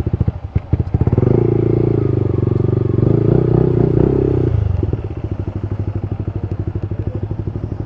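Motorcycle engine held at raised revs for about three and a half seconds, then dropping back to a steady, evenly pulsing idle.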